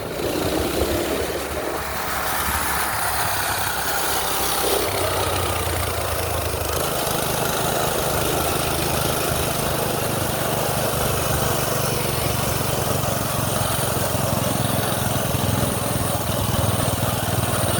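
Minibike's small petrol engine running steadily, its note settling into an even pitch about five seconds in, under a constant hiss.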